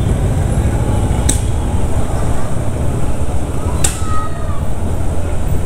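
Motorcycle engine running at low street speed, a steady low rumble with wind noise on the camera microphone. Two sharp clicks come through, about a second in and again near four seconds.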